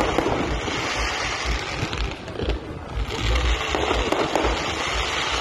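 Fireworks display with ground fountains firing: a dense, steady rush of noise that dips briefly about two seconds in, with low buffeting from wind on the microphone.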